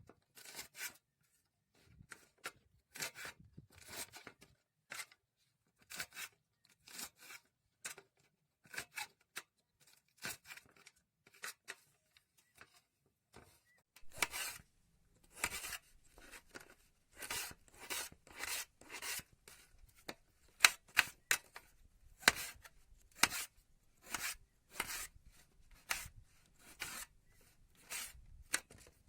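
Food being cut by hand in a kitchen: a run of short, crisp cutting strokes at an irregular pace, sparse at first and coming faster and louder from about halfway through.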